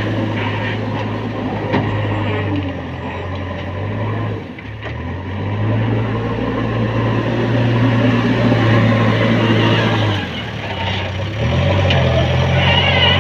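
Heavy diesel engine running steadily, its low hum dipping briefly about four seconds in and changing pitch again near the end as the load on it changes.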